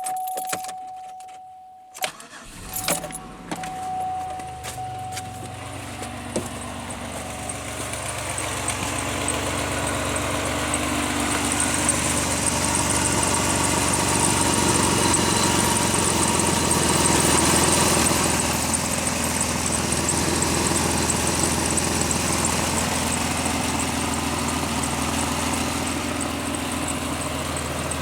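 A steady chime and jingling keys, then a 2001 Pontiac Aztek GT's V6 engine catches about two seconds in and runs at idle. The engine grows louder over the next several seconds, then holds steady.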